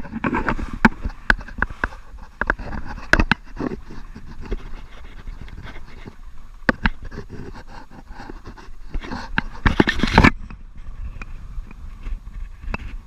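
A man panting hard from exertion, with scattered knocks and scrapes, and a loud rushing noise about nine to ten seconds in.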